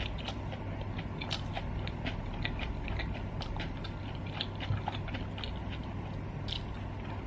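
A person chewing a mouthful of spiced stir-fried meat with lips closed: a run of soft, irregular mouth clicks, several a second.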